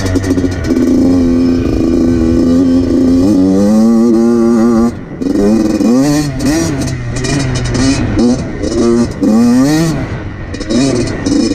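2014 Yamaha YZ85's two-stroke engine under hard riding. It is held high for about five seconds and drops off briefly, then revs up and down again and again as the throttle is worked.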